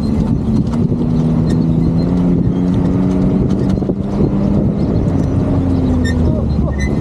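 Motorcycle engine running steadily at low revs while riding, with a low wind rumble and scattered short knocks.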